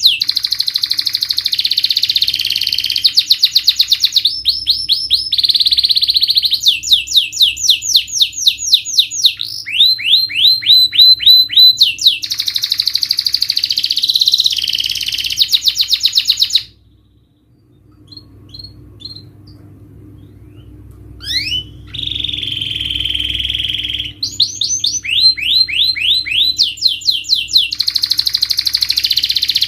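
Domestic canary singing a long song of rapid trills and quickly repeated sweeping notes. It breaks off for several seconds a little past halfway, apart from a few faint notes, then starts again.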